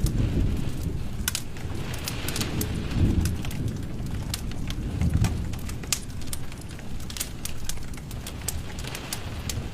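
Fire burning in a fireplace: a steady low rumble with irregular sharp crackles and pops, and brief hissing now and then.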